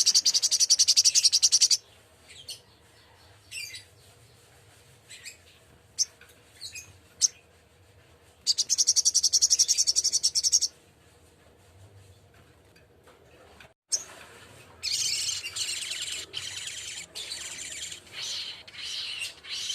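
Spiderhunter (sogok ontong) singing: two fast, high trills of about two seconds each, single sharp chips between them, then a longer busy run of chattering notes over the last five seconds.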